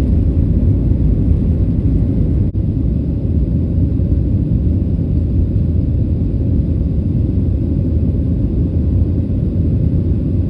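Steady low rumble of a Boeing 737's cabin as the airliner rolls on the ground just after landing, with a brief break about two and a half seconds in.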